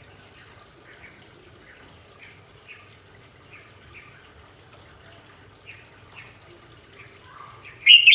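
A small bird chirping: faint short chirps about twice a second, then a loud call with falling notes near the end.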